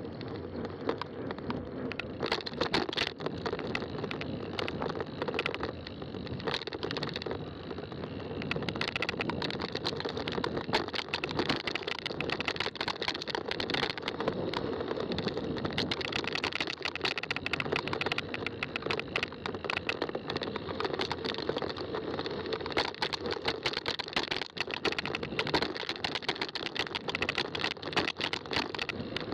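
Fat-tire bike rolling along a trail: a steady tyre roll with constant small clicks and rattles from the bike over rough ground.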